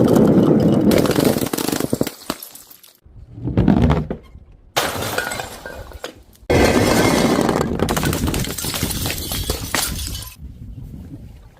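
Glass bottles shattering: about four separate breaks a few seconds apart, each trailing off as the pieces clink and settle.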